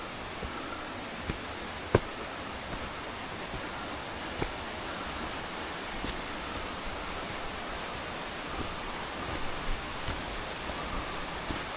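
Steady rush of water from a waterfall, an even hiss with no change. A few sharp taps sound over it, the loudest about two seconds in.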